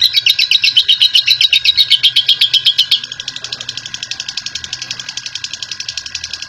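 Lovebird 'ngekek': a long, fast chattering trill of sharp repeated notes, about ten a second. About three seconds in it switches abruptly to a quieter, thinner series of the same kind.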